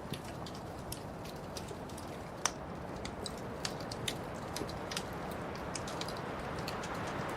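Wood fire burning in a fireplace: a low steady rush of flame with irregular sharp crackles and pops, a few each second, one louder pop about two and a half seconds in.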